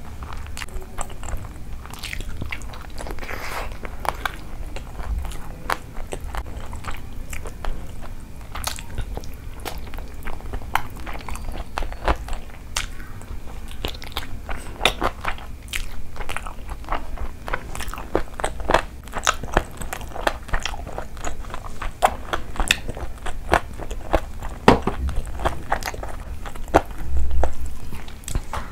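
Close-miked eating sounds: chewing mouthfuls of rice and curry eaten by hand, full of sharp, irregular mouth clicks, with a louder swell near the end.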